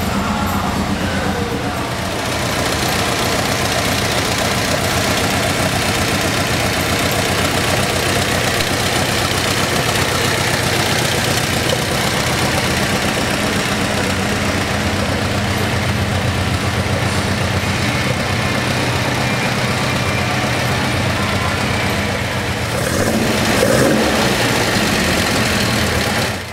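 An engine running steadily, getting louder for a moment about 23 seconds in, then cutting off suddenly at the end.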